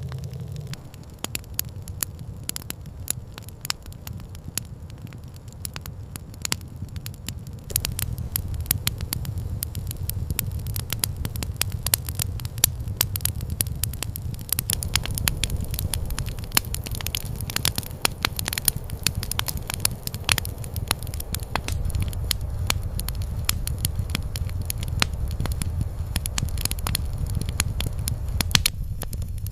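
Campfire crackling, with many irregular sharp snaps over a low steady rumble; it gets louder about eight seconds in.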